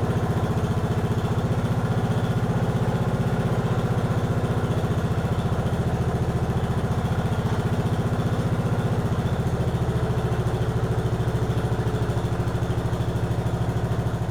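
Briggs & Stratton engine of a 1953 Economy Country Squire garden tractor running steadily with an even beat, the carburettor running well after revival.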